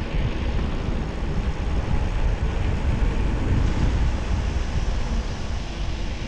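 Wind buffeting an action camera's microphone during a ride: a steady, fluctuating low rumble with a hiss above it.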